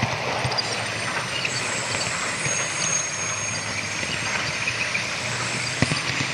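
Model train running steadily on a home layout: a continuous running hum and rumble, with scattered light clicks and one sharper click near the end, as from wheels passing rail joints and points, mixed with train sound played from a small sound-car speaker.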